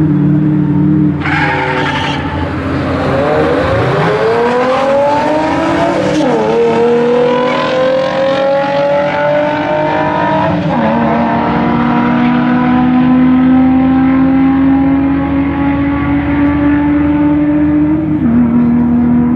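Ford Mustang GT's V8 and Infiniti G35 coupe's V6 launching in a drag race. The engines rev up through the gears, their pitch climbing and then dropping sharply at each upshift, about six and ten seconds in. After that one long, nearly steady engine note holds until a last drop near the end.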